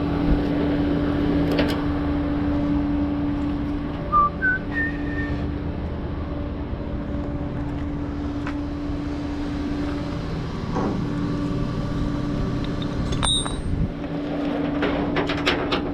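Tow truck running with a steady droning hum, broken briefly twice, with three short high chirps about four seconds in and a few clicks near the end.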